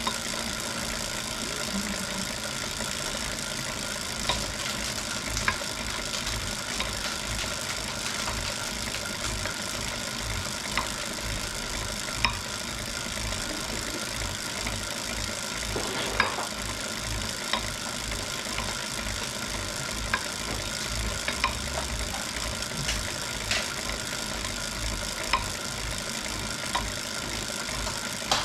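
Wahoo Kickr Core smart trainer running with a steady whir and a low pulsing, broken every second or two by a sharp knock: the annoying knocking fault the trainer has developed.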